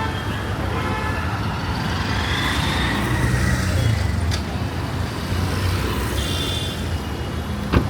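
Busy city street traffic running steadily, with a vehicle horn tooting briefly. A sharp click near the end.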